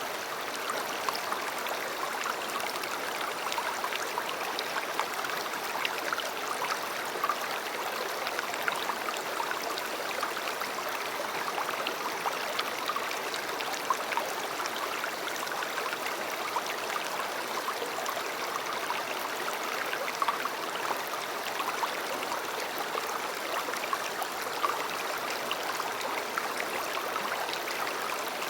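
River water flowing steadily over stones: a constant rushing babble with many small splashes and trickles scattered through it.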